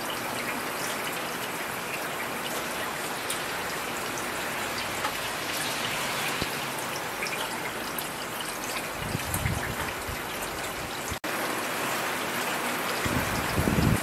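Steady heavy rain falling, a dense hiss dotted with the ticks of single drops. A low rumble comes in twice, about nine seconds in and again near the end, where it is loudest, and the sound cuts out for an instant just after eleven seconds.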